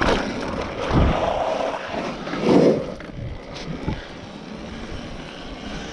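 Electric dirt bike riding on skate park concrete: a steady rushing noise with several thumps in the first three seconds, the loudest about two and a half seconds in, then quieter.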